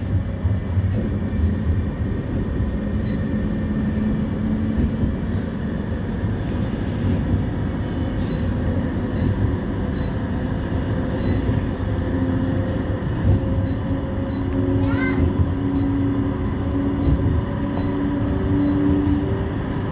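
Inside a CAF Urbos 3 tram running between stops: a steady rumble of wheels on rail with the traction motors' hum, whose pitch shifts in steps in the second half. A brief rising squeal about fifteen seconds in.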